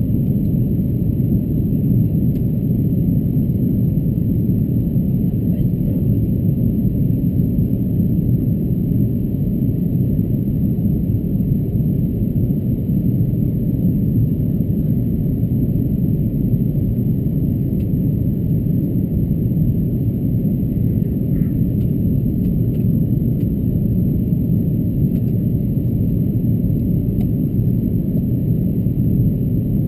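Steady low rumble of an Airbus A330-223 in flight on its approach, heard from inside the passenger cabin as airflow and engine noise.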